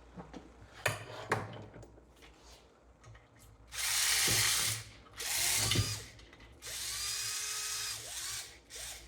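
Ryobi cordless power driver spinning bolts out of the crankcase cover of a Briggs & Stratton 3.5 hp engine, in three runs of a whining motor, the second shortest and the last the longest. A few knocks come just before, about a second in.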